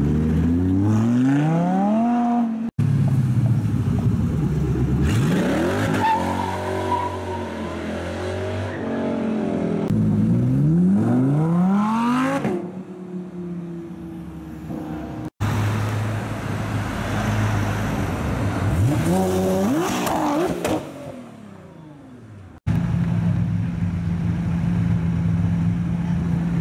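Supercar engines revving hard as the cars accelerate away, several separate passes cut one after another, each with the pitch climbing steeply and dropping back between shifts. Near the end a Lamborghini Urus engine runs steadily at low revs.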